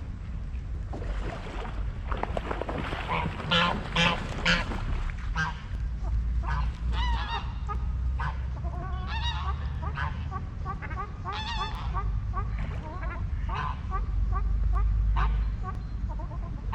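Geese honking again and again, several calls overlapping, loudest about three to five seconds in, over a steady low rumble.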